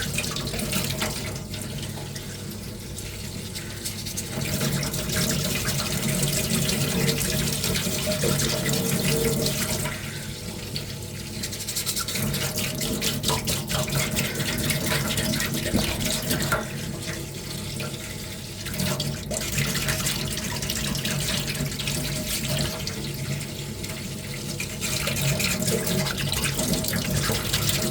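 Wet sanding underwater with waterproof sandpaper: water swishing and sloshing as a small armour piece is rubbed by hand, getting louder and quieter in spells of a few seconds.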